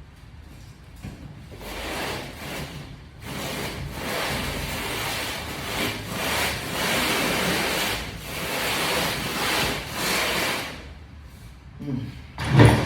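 Handling noise from unboxing a heavy pressure washer: cardboard packaging rustling and scraping in uneven surges for several seconds, then a loud thump near the end.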